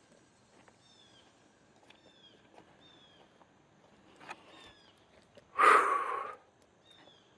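A bird calling in the woods, repeating a short high chirp that falls in pitch about once a second, over scattered light clicks. About five and a half seconds in, a short loud rush of noise, under a second long, stands out above it.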